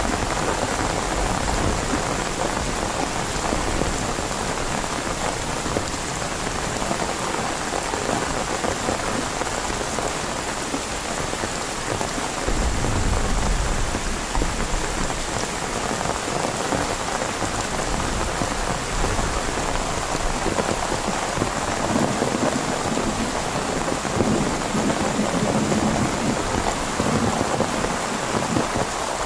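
Heavy rain falling steadily, with a brief low rumble of thunder about twelve seconds in.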